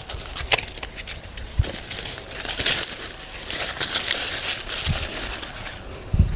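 Dry sweetcorn stalks and leaves rustling and crinkling as they are handled and chopped up, with a few sharp snaps and a low thump near the end.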